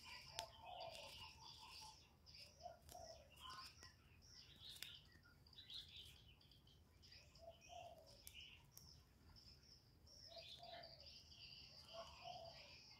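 Spotted doves cooing faintly in short low phrases every few seconds, over scattered chirps of small birds and a steady high insect trill.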